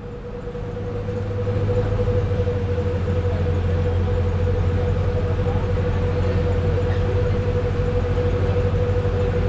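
An engine running steadily, with a low hum and a constant whine. It grows louder over the first couple of seconds, then holds.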